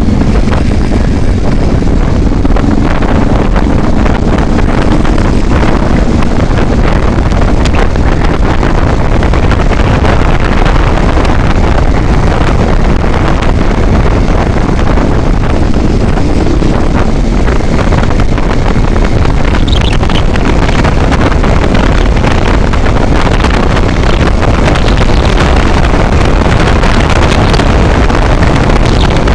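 Loud, steady wind buffeting the microphone over a vehicle driving along the highway.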